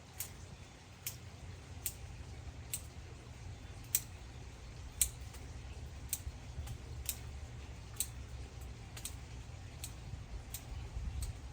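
Hand pruning shears snipping, a sharp click about once a second at an uneven pace, over a low steady rumble.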